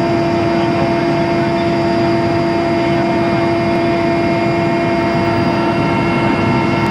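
Helicopter running in flight: a loud, steady engine and rotor drone with a constant humming whine that does not change.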